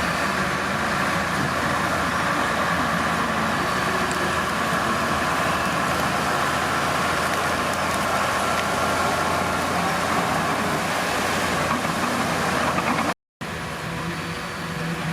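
Diesel engine of heavy earthmoving machinery running steadily. It cuts out completely for a moment near the end, then resumes a little quieter.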